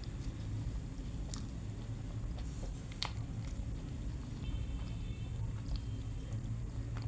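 Pizza being chewed close to the microphone, with scattered sharp clicks of biting and mouth sounds, the sharpest about three seconds in, over a steady low hum.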